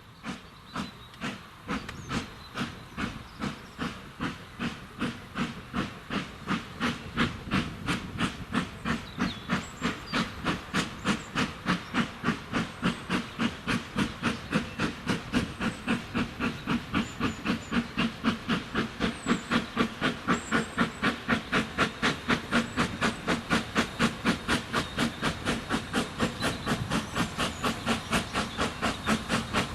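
Corpet-Louvet 0-4-0 tank steam locomotive working hard, its exhaust beating in an even chuff that quickens from about two to about four beats a second and grows steadily louder.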